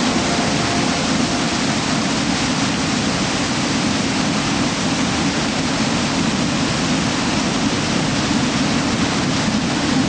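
Steady rush of a waterfall: a loud, even wash of falling water with no let-up.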